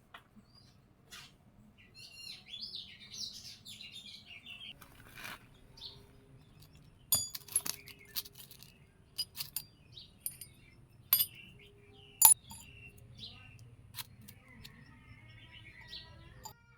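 Small birds chirping, along with a series of sharp, irregularly spaced metallic clinks and taps, some ringing briefly, the loudest in the second half.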